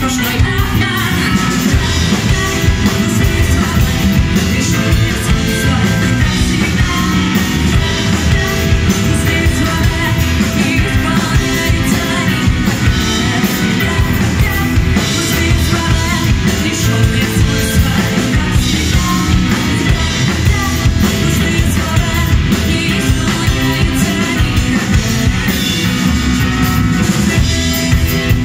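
Live rock band playing loud and without a break: drum kit, electric guitar and bass guitar.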